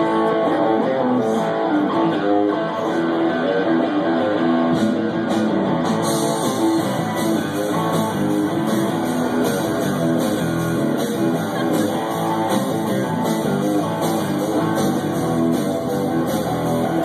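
Live rock band playing the instrumental intro of a song, led by guitar. The sound gets fuller and brighter about six seconds in.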